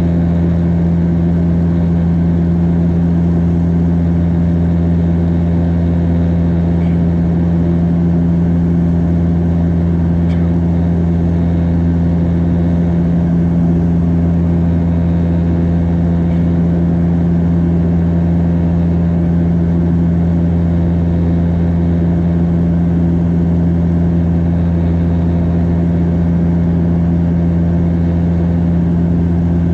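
Bombardier Dash 8 Q400 turboprop heard from inside the cabin in flight: the propellers and engines make a steady, loud drone with a strong low hum that holds an even pitch throughout.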